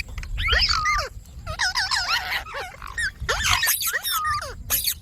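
Indian ringneck parrot calling in a rapid string of short, sharply rising and falling squawks and chatter.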